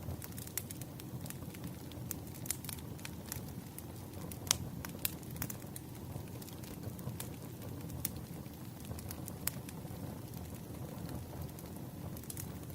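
Wood fire crackling: irregular sharp pops and snaps of burning firewood, one stronger pop about four and a half seconds in, over a steady low rumble.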